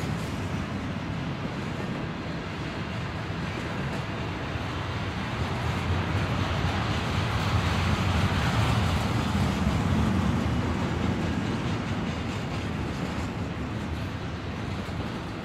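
Doublestack container train's well cars rolling slowly past: a steady rumble of steel wheels on rail that swells a little in the middle.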